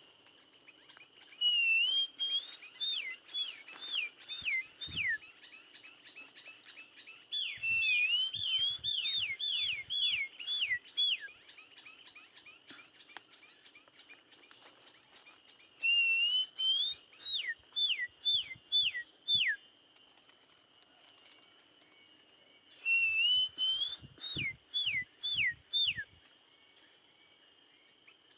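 A bird singing in repeated whistled phrases, each a short rising warble followed by a quick run of four to six notes that fall sharply in pitch. The phrases come about five times with pauses between them, over a steady high-pitched drone.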